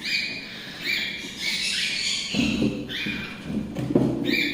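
Hand-fed cockatiel chicks giving repeated short, squeaky begging calls that rise in pitch, the food-begging calls of young chicks at feeding time.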